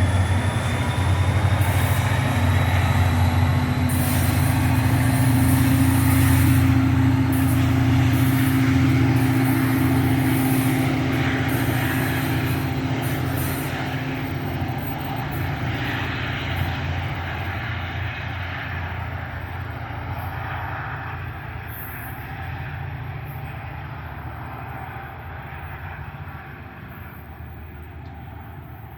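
Passenger train running past, with a low steady rumble and a held tone over the noise of wheels on the rails. The sound fades steadily as the train moves away.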